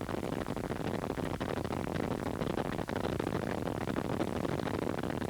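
Steady radio static: an even hiss with faint crackle, with no voice on the channel.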